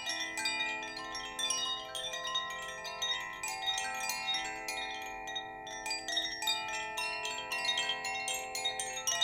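Chimes ringing continuously: many light strikes a second, their bright tones ringing on and overlapping.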